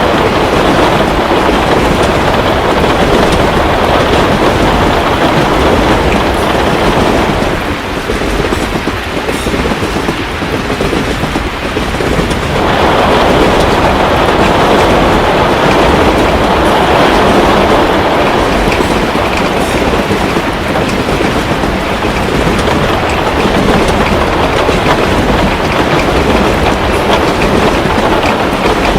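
Heavy rain falling steadily, with faint fireplace crackles on top. The rain eases for a few seconds about eight seconds in, then comes back suddenly.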